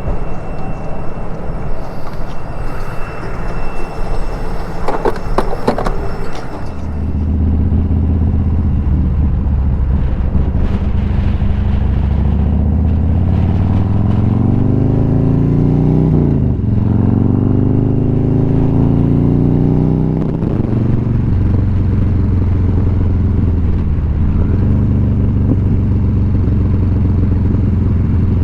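Motorcycle engine pulling away: after a few seconds of mostly wind noise it comes in loud about seven seconds in, climbs in pitch as it accelerates, drops briefly at a gear change, then settles to a steady cruise with wind on the microphone.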